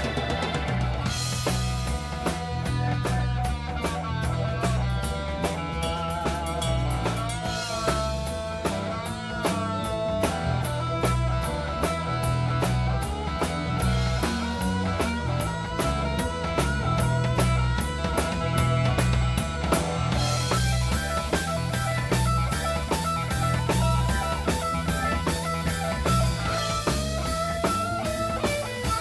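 Live rock band playing an instrumental section: drum kit and bass keep a steady groove under a lead line of bending notes, likely an electric guitar solo. Fast cymbal ticks come in over the last third.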